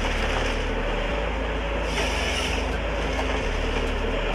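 Engine of a heavy forestry machine running steadily, a continuous low hum.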